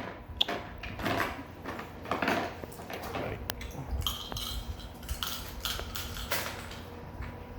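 Irregular light clattering and knocking of small hard objects being handled.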